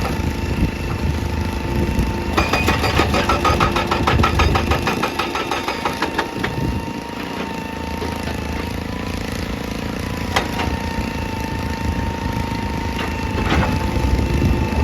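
Excavator's diesel engine running steadily with a constant high whine. From about two to six seconds in comes a rapid, even clatter, and there are two sharp single knocks later on.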